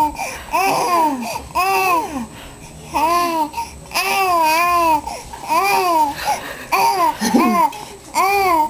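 A young child making silly high-pitched babbling sounds: a string of about ten short sing-song calls, each rising and falling in pitch, with brief pauses between them.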